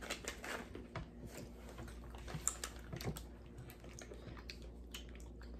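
Faint, irregular small crunches and clicks of people chewing crunchy flavoured peanuts, with light handling of snack packets.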